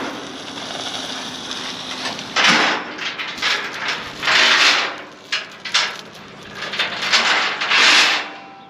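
Steel chains and J-hooks rattling and clanking as they are handled and dragged, in several separate bursts with clinks between, the loudest near the middle and near the end.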